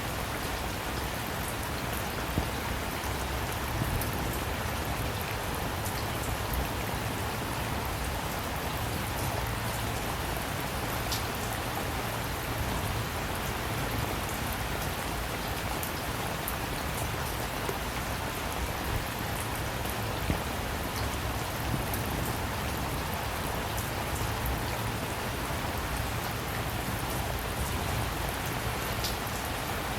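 Steady rain falling, with many small drops ticking sharply on a surface over an even hiss.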